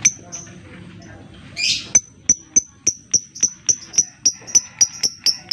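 Lovebird calling: two short high chirps, then a harsh screech, then a rapid, even run of sharp high 'ngetik' ticks at about three to four a second.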